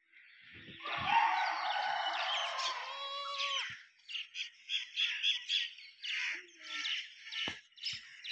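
Birds calling: a long, dense call ending in a drawn-out note over the first few seconds, then quick, repeated short chirps. A single sharp knock comes near the end.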